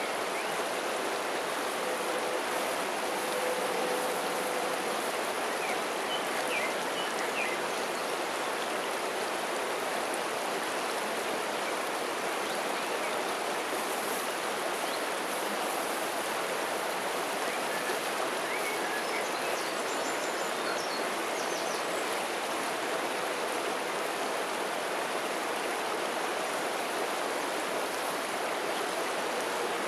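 River water flowing steadily with an even rushing sound. A few faint, short high chirps show through it about six seconds in and again around twenty seconds in.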